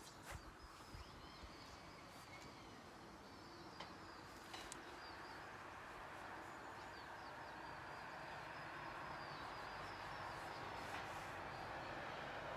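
Small birds chirping over and over in short high notes, with a few faint clicks in the first seconds. A low rushing noise swells steadily louder toward the end.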